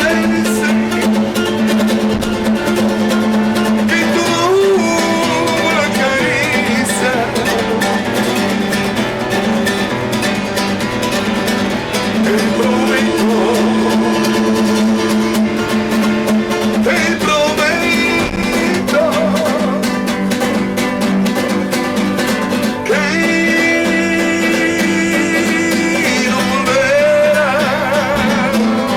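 Acoustic guitar played with a man singing over it, in a Latin American style, with sung phrases coming and going over the guitar.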